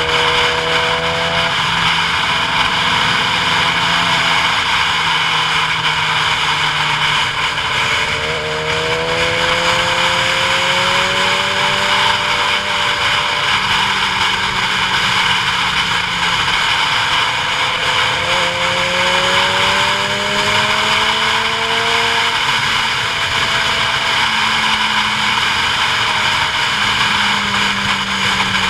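Vehicle engine running under steady wind and road noise on a downhill mountain run. Its pitch slowly rises, drops suddenly about a third of the way in and again past halfway, and climbs again each time.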